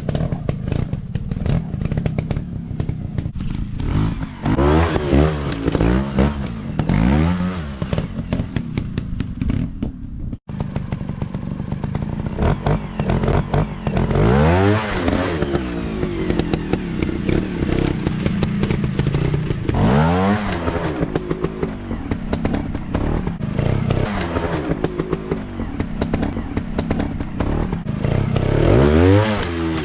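Four-stroke dirt bike engines running off-road, revved up and down again and again as the throttle is opened and closed, with clattering. The sound breaks off for a moment about ten seconds in.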